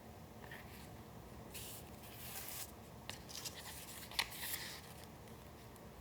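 Sheets of paper being handled: a rustle lasting about a second, then a few sharp ticks and a short rustle, the loudest tick about four seconds in.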